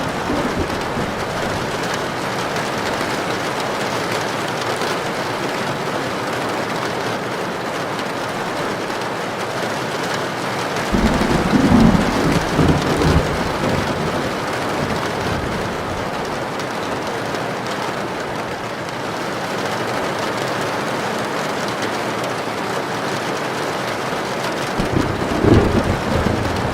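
Heavy rain drumming steadily on a tin roof. Thunder rumbles for about three seconds starting about 11 seconds in, and again near the end.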